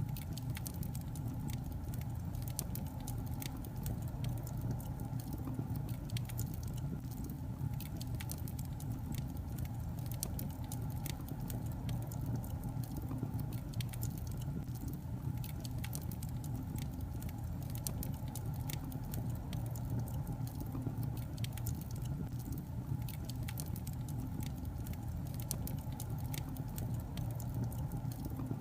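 Wood fire burning in a fireplace: a steady low rumble from the flames with many small, irregular crackles and pops from the logs.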